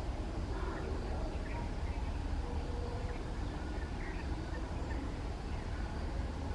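Outdoor field ambience: a steady low rumble, with faint short bird calls scattered through.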